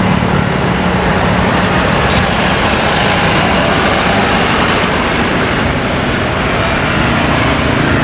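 Loud, steady rushing noise of a jet airliner's engines on the runway, with a low hum that fades about two seconds in.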